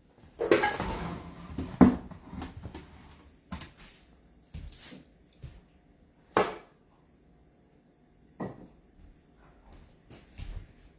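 Handling noise from trading-card boxes and packaging: rustling in the first couple of seconds, then scattered knocks and clicks as boxes are set down and moved.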